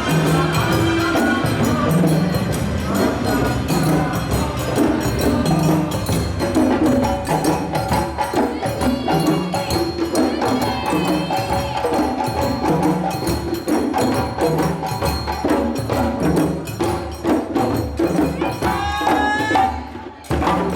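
Parade percussion ensemble of African-style hand drums playing a fast, dense, driving rhythm, with lighter clicking and jingling percussion over it and a few melodic phrases above the drums.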